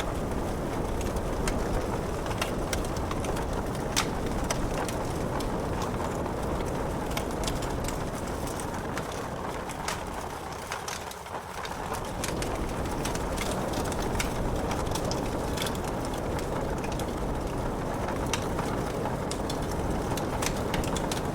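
Wood fire crackling with sharp pops and snaps over a steady low rush of rain, dipping briefly about halfway through.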